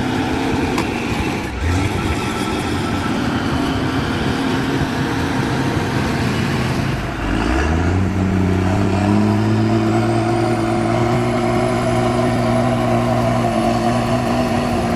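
Heavy vehicle engine working under load. About seven seconds in it revs up, then holds a strong steady note that creeps slowly higher in pitch.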